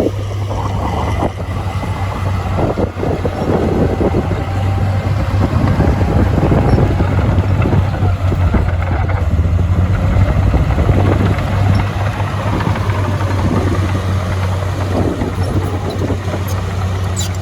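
Heavy earthmoving machine's diesel engine running with a steady low drone, with a few light clicks near the end.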